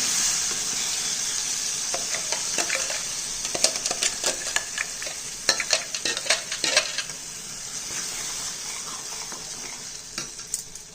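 Pureed ripe bananas sizzling in hot ghee in a kadhai while a spoon stirs them, clicking and scraping against the pan in a run of strokes from about two to seven seconds in, with one more near the end. The sizzle fades gradually as the puree cools the pan.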